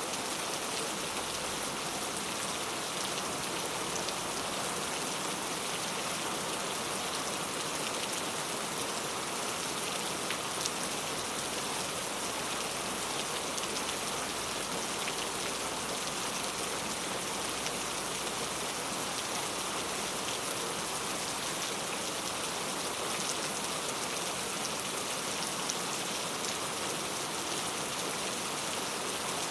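Heavy rain falling steadily: a dense, even hiss of rain with many small drop hits on hard surfaces.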